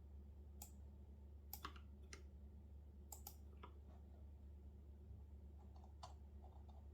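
Faint, scattered keystrokes on a computer keyboard: a few separate taps at irregular intervals, not a steady run of typing, over a low steady hum.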